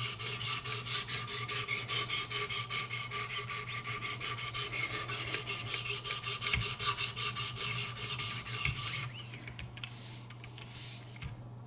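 Abrasive sharpening stones of a Wicked Edge guided sharpener rubbing along a hunting knife's edge in rapid, even strokes, about five a second. The strokes stop about nine seconds in.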